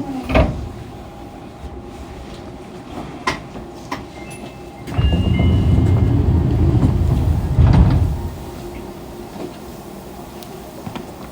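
Fukuoka City Subway 2000 series train at a station stop: a sharp clunk just after the start, then about five seconds in the sliding doors open with a loud rush lasting some three seconds that ends in a knock. The car then settles to a steady low hum.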